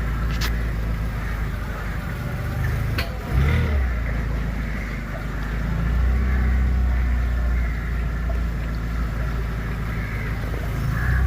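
A boat's motor running with a steady low rumble, with a sharp knock about three seconds in.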